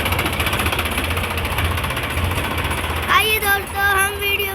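Tractor engine running with a fast, even knocking beat. About three seconds in, a high voice comes in over it.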